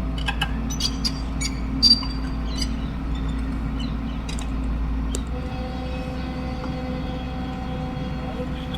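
Hitachi excavator's diesel engine running steadily, with scattered clanks and knocks over the first few seconds, the loudest about two seconds in. About five seconds in, the deep rumble drops and a steady higher tone comes in.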